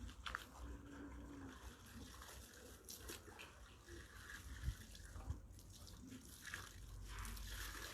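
Faint splashing and sloshing of water as clothes are hand-washed in a bucket, with two soft knocks about halfway through.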